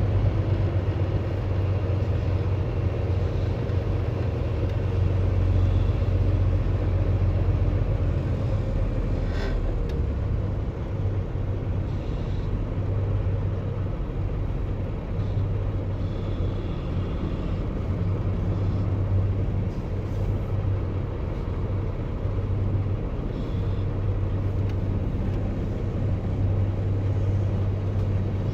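Semi truck's diesel engine running slowly during a backing manoeuvre, a steady low drone, with one sharp click about nine seconds in.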